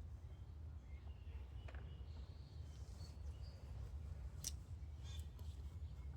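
Faint background ambience: a steady low rumble with a few brief, faint high chirps and a sharp click about four and a half seconds in.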